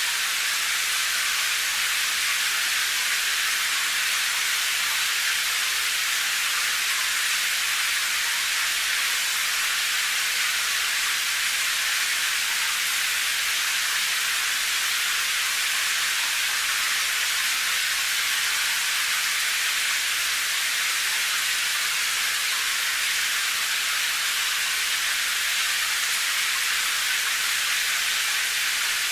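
Steady rain as a dense, even hiss, weighted to the high end with little low rumble, with no separate drops, thunder or changes.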